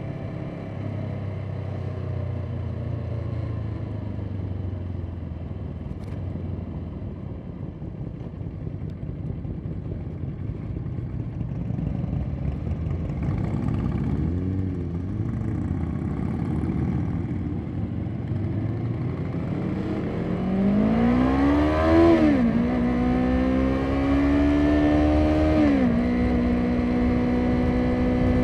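Motorcycle engine running at low revs, then pulling away: the revs climb from about twenty seconds in, drop sharply at a gear change, climb again, drop at a second change, then hold steady at cruising speed.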